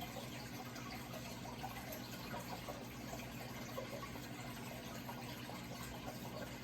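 Running water trickling and splashing steadily, over a low steady hum.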